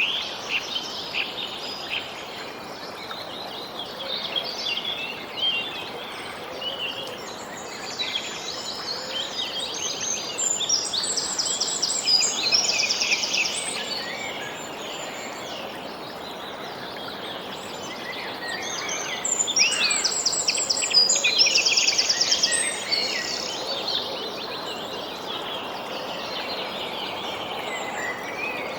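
Several songbirds chirping and singing over a steady background hiss, with two louder spells of fast trilling song, one in the middle and one about two-thirds of the way through.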